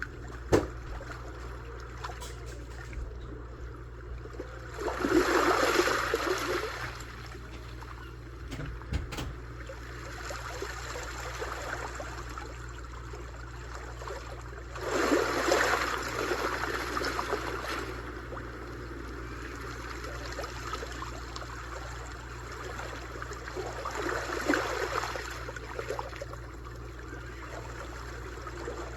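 Sea waves washing on a shore, swelling and breaking three times, about five seconds in, near the middle and near the end, over a steady wash of water. A single sharp click about half a second in.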